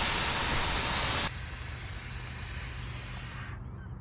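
Compressed air hissing out of the drain valve of a DIY tire deflation manifold as the tires are bled down from about 32 psi, with a thin whistle in it. The hiss is loud, drops sharply in level about a second in, then cuts off near the end.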